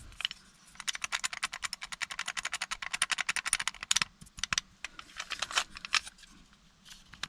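Worn Ford ignition lock cylinder assembly shaken by hand, its loose parts clicking metal on metal in a rapid rattle for about three seconds, then a few single clicks. The rattle is the sign of a worn, sloppy lock assembly, the cause of the key turning without starting the engine.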